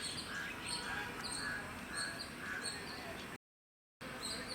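Small birds calling repeatedly in the background, with short high notes about twice a second over a steady outdoor hiss. The sound cuts out completely for about half a second near the end.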